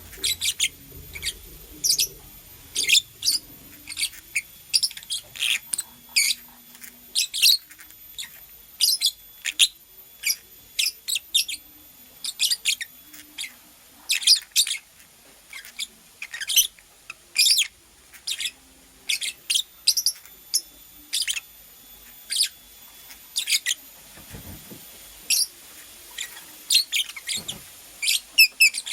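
Lovebird chirping: short, sharp, high-pitched chirps repeated irregularly, about one or two a second.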